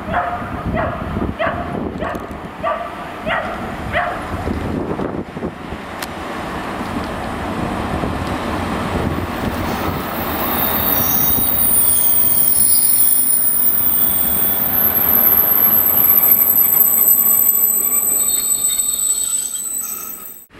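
A diesel locomotive hauling passenger coaches runs into the station and past, the rumble growing louder. From about ten seconds in, high-pitched wheel squeal rises over it as the coaches roll by. In the first few seconds a dog barks repeatedly.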